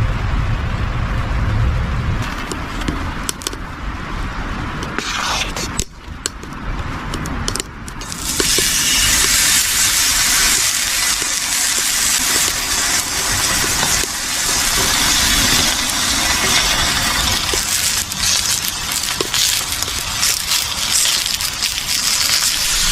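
Food sizzling and crackling in a hot pan. The frying starts suddenly about a third of the way in, after a few scattered clicks and knocks.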